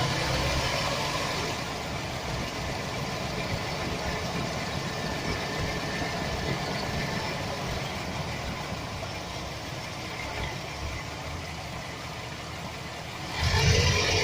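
2007 Chevy Express 1500's 4.3 L V6 engine idling steadily, with the rattle that the owner puts down to a bad starter motor gear bumping against the flexplate. The sound grows noticeably louder about a second before the end.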